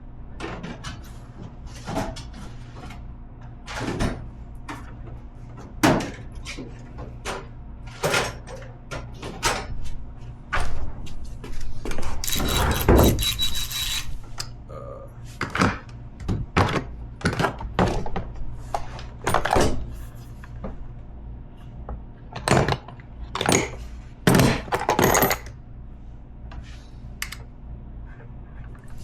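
Hand tools and metal parts of a Razor MX650 electric dirt bike being handled during disassembly: scattered clinks, knocks and thunks, with a longer noisy stretch of a couple of seconds about halfway through, over a steady low hum.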